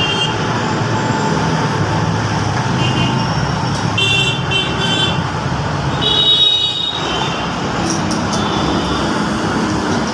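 Steady engine and traffic noise with a few short horn toots, about four and six and a half seconds in.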